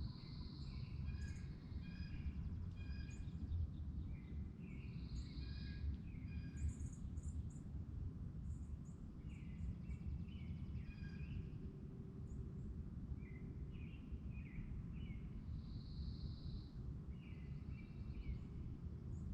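Birds calling in short, repeated chirping notes, several overlapping, over a steady low rumble.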